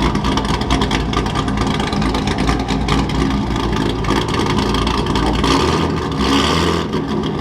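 Chevrolet Corvette C5 Z06's V8 engine burbling as the car rolls by at low speed, with rapid exhaust pulses; the sound shifts about five and a half seconds in.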